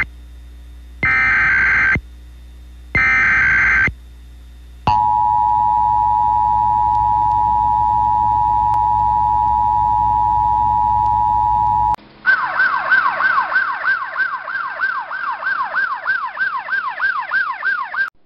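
Emergency Alert System warning tones. Three short bursts of data tones come first, then a steady two-tone attention signal from about five seconds to twelve seconds, then a fast warbling siren tone sweeping about three times a second.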